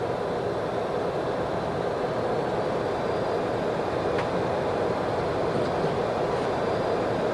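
Steady rush of airflow and engine noise inside the flight deck of a Boeing 737-200 in flight.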